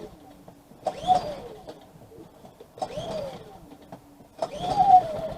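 Small petrol engine of a portable generator being pull-started. Three short pulls spin it up and let it die away, and on the fourth, about four and a half seconds in, it catches and settles into a steady run.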